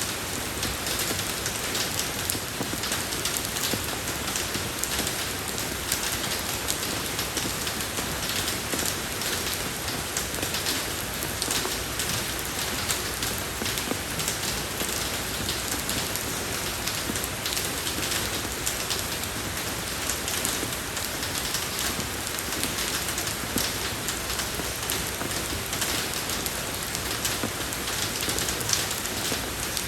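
Steady soft rain falling on a road surface, a dense even patter of drops.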